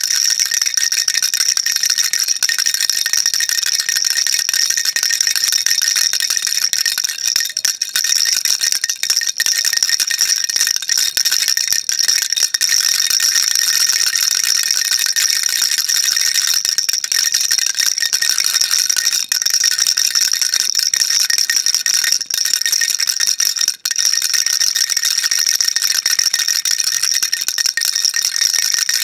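Baby rattle shaken without pause: a dense, steady, high-pitched rattling.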